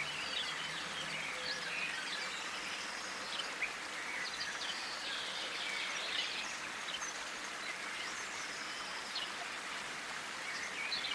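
Several small songbirds chirping and calling, many short chirps and brief whistles scattered throughout, over a steady background hiss.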